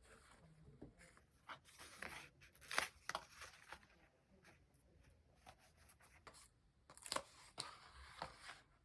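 Close-up handling of paper and stickers: irregular, faint crinkly rustles and peels, with the loudest ones about three seconds in and seven seconds in.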